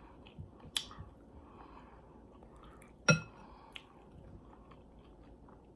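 Close-miked chewing of food with small wet mouth clicks, and one sharp ringing clink about three seconds in, like a utensil tapping a dish or glass.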